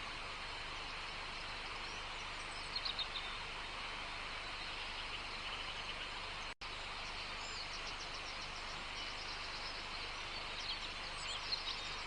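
Outdoor nature ambience: a steady background hiss with small birds chirping in short bursts now and then. The sound cuts out completely for a split second just past halfway.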